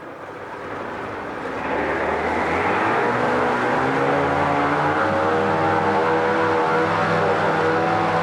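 2000 Johnson 50 hp two-stroke outboard motor running in forward gear in a test tank. It gets louder and picks up revs over the first couple of seconds, then runs steadily.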